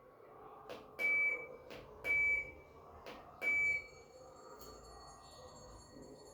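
Washing machine control panel buttons being pressed: a few sharp clicks, three of them answered by a short high beep, about a second or so apart.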